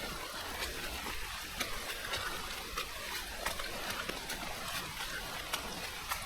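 Steady monsoon rain falling on forest foliage: an even hiss with scattered drops ticking irregularly.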